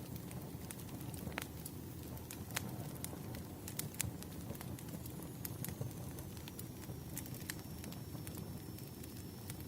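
Crackling wood fire: a steady low rumble of burning logs with irregular sharp pops and snaps, and a faint thin high whistle from about halfway through.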